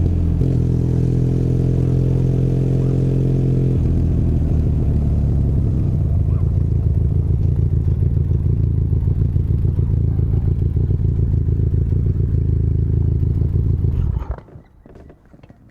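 Benelli Leoncino 500 Trail's parallel-twin engine running at low, steady revs, then settling into a pulsing idle about four seconds in. It is switched off about fourteen seconds in, and the engine sound cuts out abruptly.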